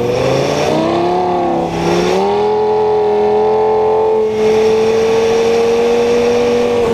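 Lamborghini Gallardo V10 engine accelerating. Its pitch climbs, drops with an upshift about two seconds in, then holds a steady, slowly rising note under load.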